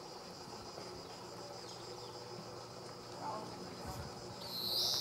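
Insects trilling steadily on one high note, and about four and a half seconds in a single loud bird call that slides down in pitch.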